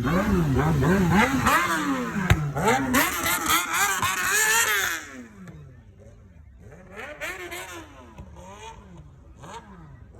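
A vehicle engine revved again and again in quick blips, its pitch rising and falling about twice a second and climbing to one long high rev. About five seconds in it drops sharply, leaving fainter revving.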